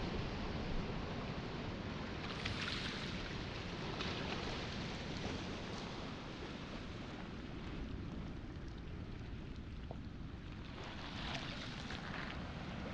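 Waves washing onto a pebble shore over a steady low rumble of wind and surf, the hiss and crackle of the shingle swelling up twice, near the start and again toward the end.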